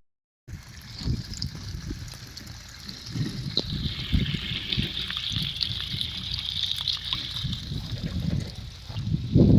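Water running and trickling, a steady hiss with an uneven low rumble underneath.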